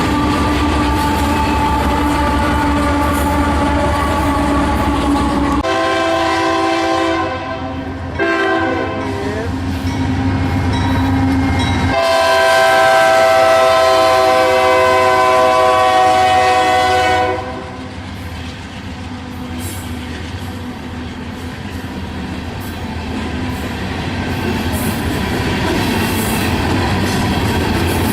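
Freight train with diesel locomotives passing, its air horn sounding from about six seconds in: a short blast, a longer one, then a long blast that cuts off at about seventeen seconds. After the horn the train keeps rolling by with a steady rumble.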